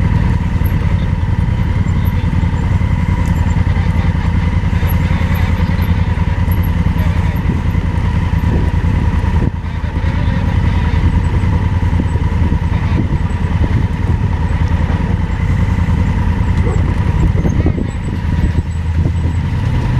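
Motorcycle engine running steadily under load on a steep dirt climb, with a brief drop about halfway through.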